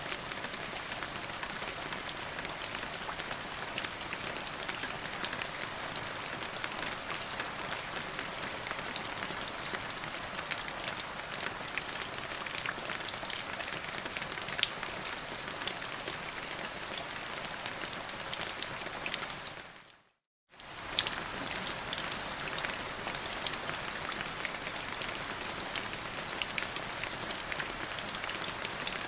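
Steady rain falling on a surface, an even hiss dotted with sharp ticks of individual drops. It fades out to silence for about half a second two-thirds of the way through, then comes straight back.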